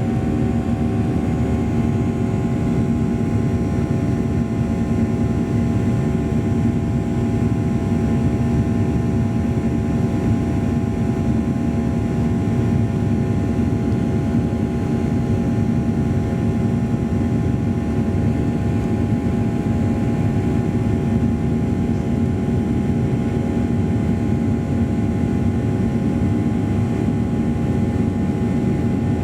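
Boeing 737-800 cabin noise in flight: the steady drone of the jet engines and rushing air, with a few steady tones held over it and no change in pitch or loudness.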